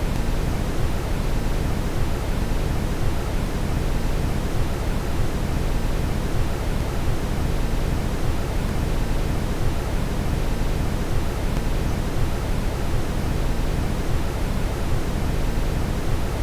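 Steady brown noise: an even, deep hiss weighted toward the low end, with no change.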